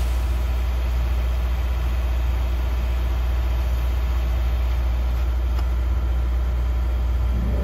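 Subaru WRX's turbocharged flat-four engine idling steadily, with a strong even low hum.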